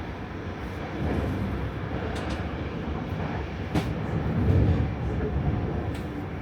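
ÖBB REX8 regional train, a Cityjet electric multiple unit, running along the track: a steady rumble of wheels on rail, with one sharp knock about four seconds in, followed by a short swell of deeper rumble.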